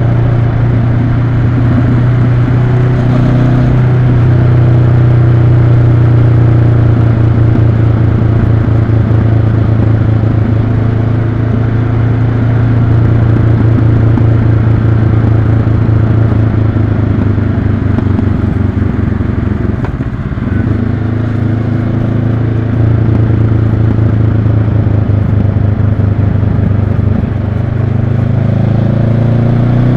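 2022 Honda CB500X's parallel-twin engine running steadily under way. The engine note eases off briefly about two-thirds through and rises again near the end.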